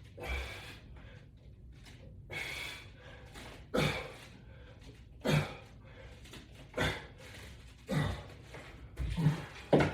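A man breathing out hard with each repetition of a resistance-band exercise, short forceful exhalations and grunts about every second and a half.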